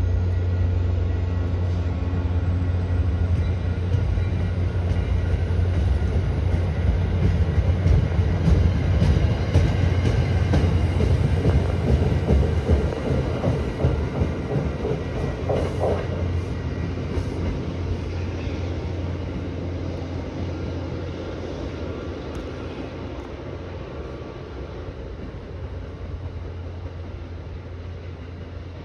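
Commuter rail train rolling past with a steady diesel locomotive drone and the coaches' wheels clicking and rattling over the track. The sound fades steadily through the second half as the train moves away.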